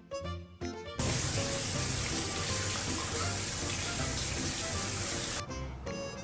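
Background music, then about a second in, water starts running steadily for about four seconds, rinsing shampoo off a cat during its bath, and cuts off suddenly as the music comes back.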